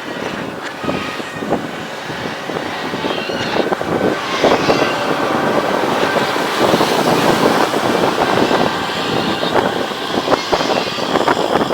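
Excavator digging: machine noise with gritty scraping and crackling of soil and stones, getting louder about four seconds in.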